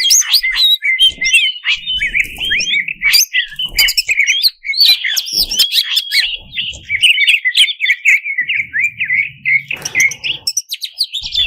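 Cucak cungkok leafbird singing a fast, unbroken stream of varied chirps and short rising and falling whistles.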